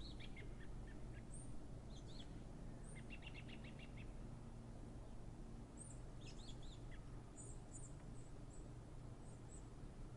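Small birds chirping in short calls and quick runs of chirps, over a steady low background rumble.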